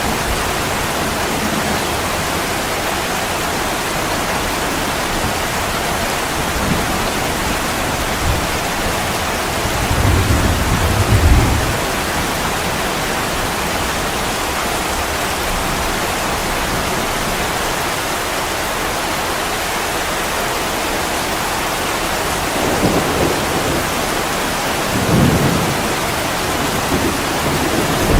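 Heavy rain falling steadily on window glass, with low rumbles of thunder swelling about ten seconds in and twice more near the end.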